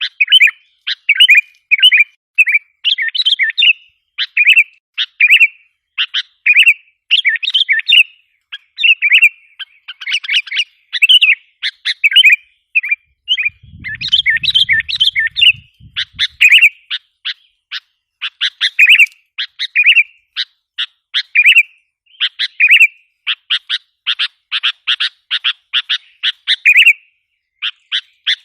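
Sooty-headed bulbuls calling in an unbroken stream of short, bright chirps and quick warbled phrases, the sound used as a lure to draw in wild bulbuls.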